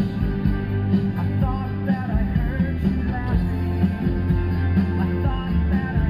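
Rock song with singing, playing from a car radio.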